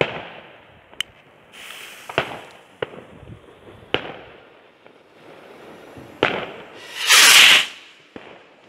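Fireworks: an Xplode Swirl rocket (XPE 2914) launched from a stand and bursting into strobing stars amid other fireworks. There are sharp bangs a second or two apart, and a loud rushing hiss about seven seconds in.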